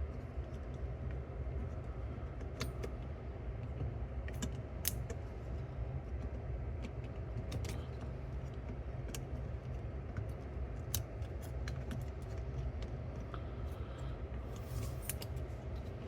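Scattered small clicks and light ticks of metal and plastic parts and hand tools as the cover is fitted onto a Pioneer T-838 cassette deck's tape transport mechanism, over a steady low hum.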